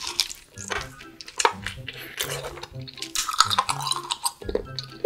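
Background music with regularly repeating notes, over many short wet clicks and smacks of someone chewing raw seafood.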